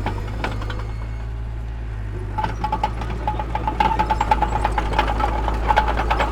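Heavy earthmoving machinery, a diesel engine running with a steady low rumble. From about two and a half seconds in, a quick, uneven run of metallic clanks and squeaks joins it, like steel tracks or rock and metal knocking.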